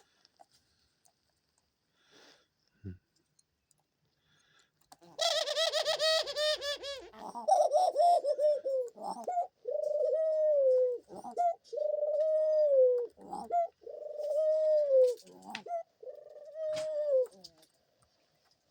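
Dove cooing. About five seconds in, a rolling, warbled coo opens the run. It is followed by about half a dozen drawn-out coos, each holding its pitch and then falling away at the end.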